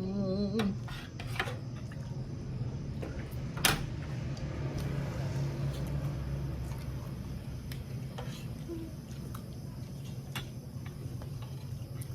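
Mealtime table sounds: sparse light clinks of cutlery against dishes, one sharper click a few seconds in, over a steady low hum. A brief hummed "mm" at the start.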